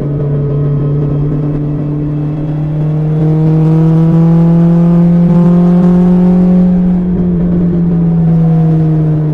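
BMW S1000XR's inline-four engine through an Akrapovic exhaust, running at a steady cruise. The note rises gently and grows louder about three seconds in, then eases back down about seven seconds in, as the throttle is rolled on and off.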